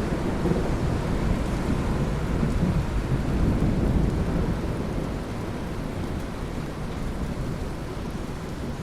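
Steady rain falling with a low rumble of thunder that swells to its loudest about four seconds in and then slowly dies away.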